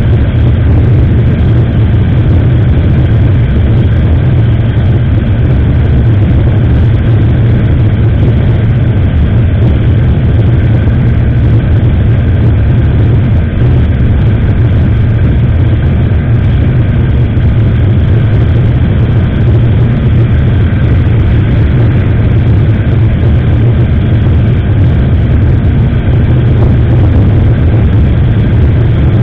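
Loud, steady low rumble of wind buffeting an SJCAM action camera's microphone on a moving motorcycle, mixed with the motorcycle's engine running.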